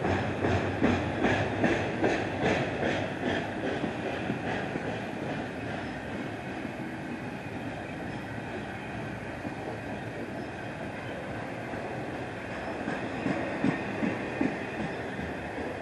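Double-stack container well cars of a freight train rolling past. The steel wheels click rhythmically over the rail joints for the first few seconds, then give way to a steady rolling rumble, and the clicking returns near the end as the last cars go by.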